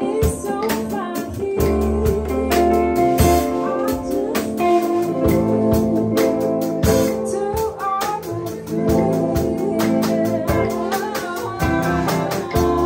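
Live band playing, with a drum kit keeping a steady beat under organ chords and a voice singing.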